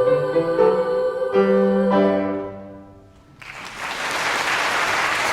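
The closing piano chords ring out and die away; then, about three and a half seconds in, the audience starts applauding.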